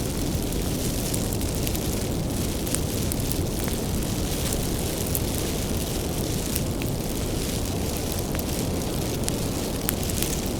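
Wood bonfire burning, with a steady low rush of flame and frequent sharp, irregular crackles and pops of firewood.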